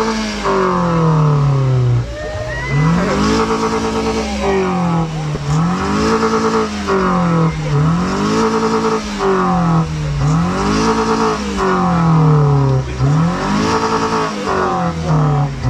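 Car engine being revved over and over, the pitch climbing, holding briefly and falling back about six times.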